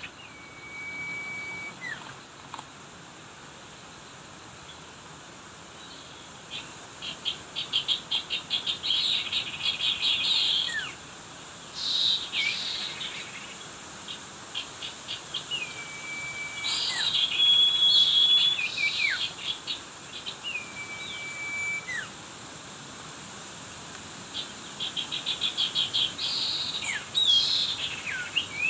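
Small birds calling and singing: several held, level whistles, each ending in a quick falling note, alternate with fast, rattling high trills.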